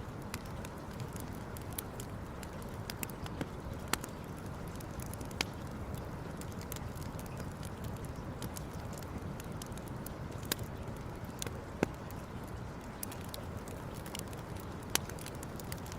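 Wood campfire crackling: scattered sharp pops and snaps, several of them louder, over a steady low rush.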